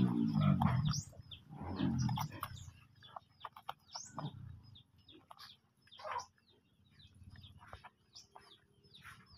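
A voice in the first second, then scattered short, high bird calls, likely backyard fowl, spaced irregularly through the rest.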